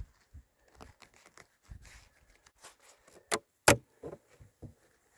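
Light knocks and clicks from handling the parts of a beehive as it is opened, with two sharper clicks in quick succession about three and a half seconds in.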